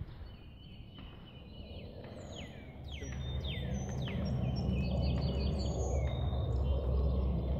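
Birds chirping and singing, with a run of quick downward-sweeping notes near the middle. Underneath is a low outdoor rumble that grows louder from about three seconds in.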